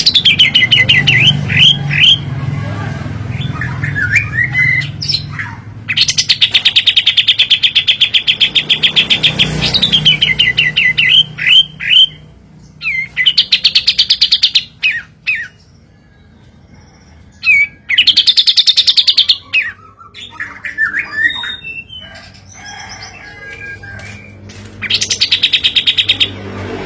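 White-shouldered triller (kapas tembak) singing: long, very rapid trills of a few seconds each, about four of them, broken up by short downward-slurred notes.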